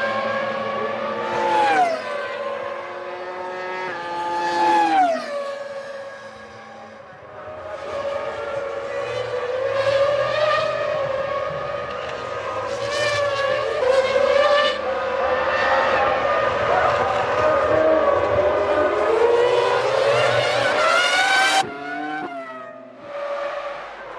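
Formula One 3-litre V10 engines at racing speed, their high note dropping in quick steps twice early on as they change down under braking, then climbing and wavering under acceleration. The sound changes abruptly near the end.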